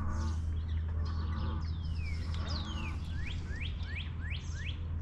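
A songbird singing: a few short calls, then two long falling whistles, then a quick run of about six rising whistles, over a steady low hum.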